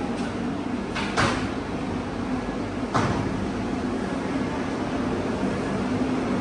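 A passenger train pulling out of a station, its coaches rolling past with a steady hum and rumble. There are two short hissing bursts, about one and three seconds in.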